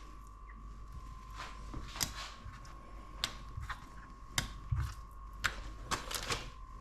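Knife slicing raw chicken breast into thin strips on a chopping board, the blade tapping the board in short, irregular strokes.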